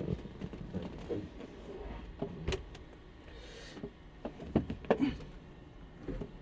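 Scattered sharp clicks and knocks inside a light aircraft's cabin over a low rumble, with a brief hiss in the middle and a cluster of knocks near the end.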